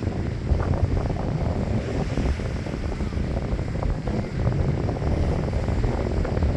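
Wind buffeting the microphone: a steady, rough rumble, with scattered short crackles through it.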